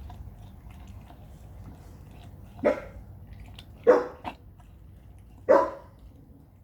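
A dog barking three times, short deep barks a little over a second apart, with a small extra yelp after the second.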